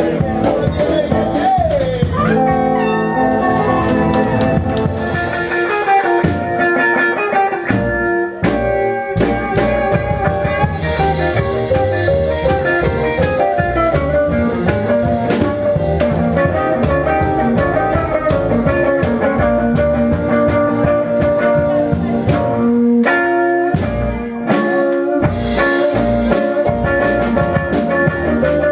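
Live swing band playing an instrumental passage with drums, with short stop-time breaks punctuated by hits about eight seconds in and again near twenty-four seconds.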